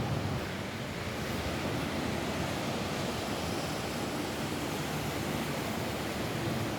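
Steady rain falling on a roof: a dense, even hiss without separate drops standing out.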